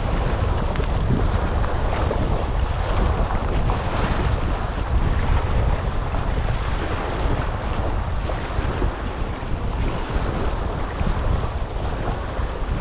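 Small waves lapping and breaking on the Dead Sea shore, with wind buffeting the microphone as a steady low rumble.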